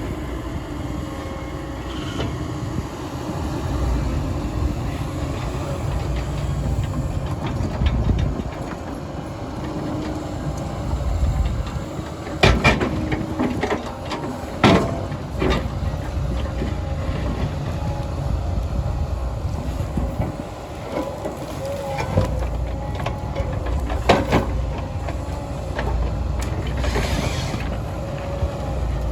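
Heavy diesel machinery running steadily, with a few sharp metallic knocks about halfway through and another near the end.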